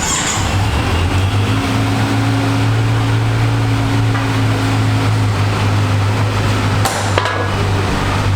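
Kawasaki Z900's 948 cc inline-four engine starting and then idling steadily. A couple of sharp clicks come about seven seconds in.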